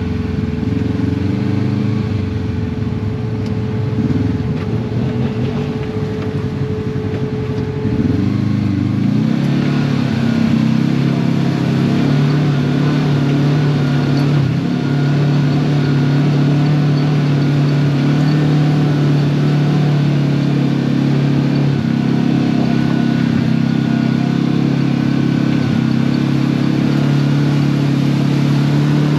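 Side-by-side UTV engine running on a trail ride, with a thin steady whine over it at first. About eight seconds in the whine stops and the engine picks up, then holds a steady higher drone.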